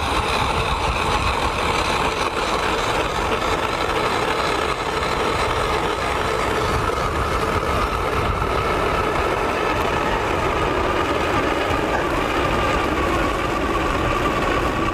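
Power ice auger drilling a hole through lake ice, its motor running steadily with a slight drop in pitch over the second half as it bites in.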